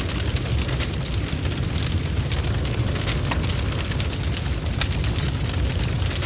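Bonfire crackling: frequent sharp, irregular pops and snaps over a steady low rumble of burning.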